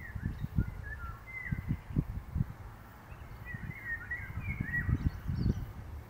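A songbird singing short phrases of thin, down-slurred whistled notes, one burst of song near the start and a second, busier one after the middle. Low, gusty rumbles of wind on the microphone run under it and are louder than the song.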